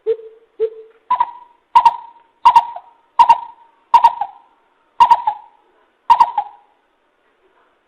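Coucal (bìm bịp) calling: a series of deep hooting notes, two lower ones followed by seven higher ones, spaced a little under a second apart and slowing slightly toward the end.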